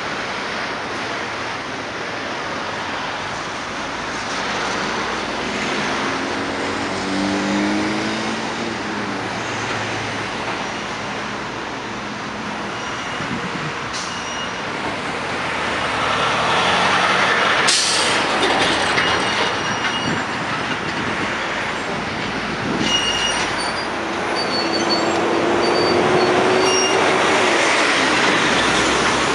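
Diesel switcher locomotive working a string of freight cars through the yard, its engine note rising twice, with short high-pitched wheel squeals in the second half and one sharp bang about two-thirds of the way in, over steady traffic noise.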